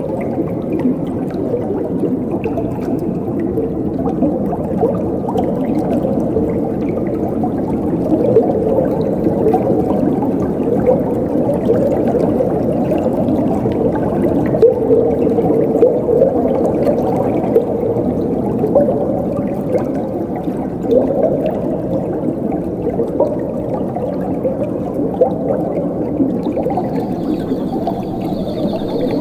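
Flowing water gurgling and bubbling steadily. A high, pulsing cricket trill joins near the end.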